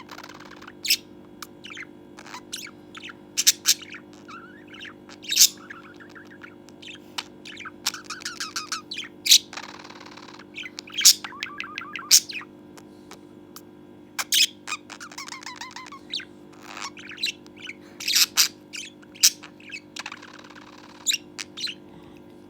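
Budgerigar chattering and warbling: a string of short, sharp chirps and clicks with warbling runs, and a harsh scratchy call about ten seconds in.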